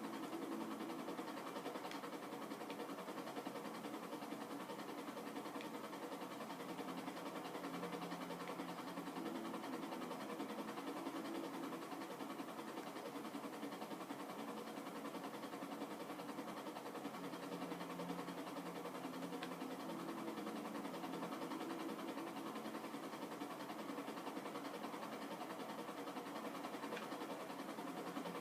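Steady low mechanical drone, like an engine running, holding even throughout with no breaks.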